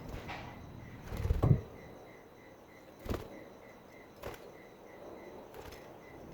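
Budgie cage knocks: a dull thud with a short rustle about a second in, then sharp clicks about two and three seconds later. Underneath runs a faint chirping pulse, about three a second.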